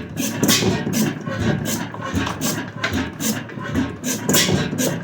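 1898 Crossley hot-tube-ignition gas engine running with a steady rhythmic beat, about two to three sharp, hissing strokes a second over a low rumble.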